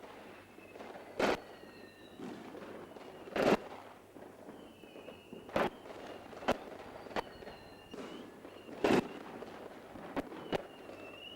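Fireworks going off: about eight sharp bangs at uneven intervals, one to two seconds apart, with faint short whistling tones in between.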